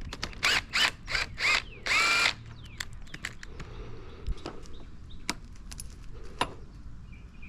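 A handheld power driver run in about six short trigger bursts, its motor pitch rising and falling with each, followed by scattered metal clicks and taps of tools on the bike.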